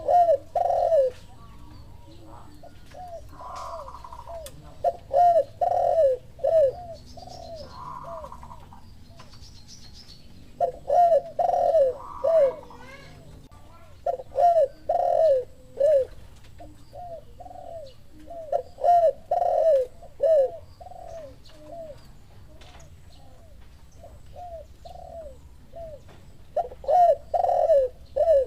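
Doves cooing: phrases of several short coos repeated every few seconds, a derkuku lure call with a spotted dove (tekukur) answering.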